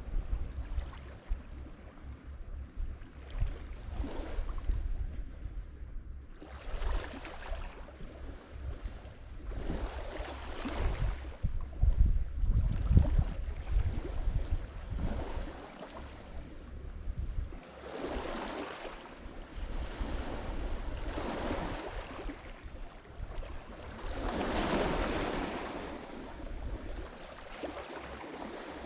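Lake Michigan waves breaking on the shore in repeated surges a second or two apart, with the biggest break about 25 seconds in. Wind rumbles on the microphone through the first half, then drops away.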